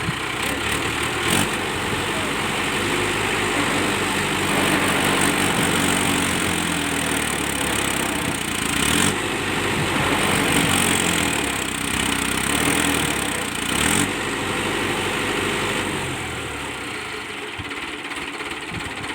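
Mahindra Arjun 555 Ultra tractor's diesel engine running: revved up for several seconds in the middle, with brief dips, then settling back down to idle near the end.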